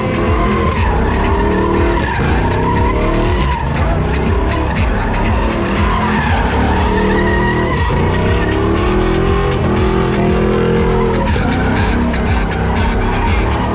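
Truck engine revving hard at high rpm while its tyres spin in a burnout, the revs rising and falling over and over.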